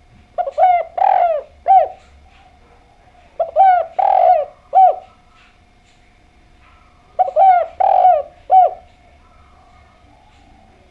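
Spotted dove (derkuku) cooing, three phrases of about four coos each, a few seconds apart, over a faint steady hum.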